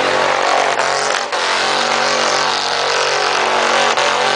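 Mini truck engine held at high revs during a burnout, with a brief dip in revs about a second in.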